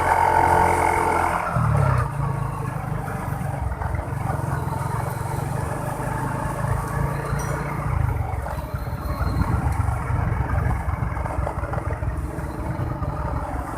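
Motorbike engine running while riding in traffic. About a second and a half in, its steady note gives way to an uneven, rumbling running sound.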